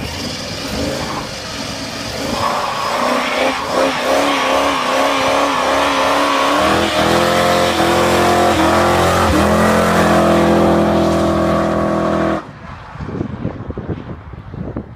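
Muscle car engine revving hard during a burnout, with tyre squeal: the revs rise and fall for a few seconds, then are held high and steady for about five seconds before dropping off suddenly near the end.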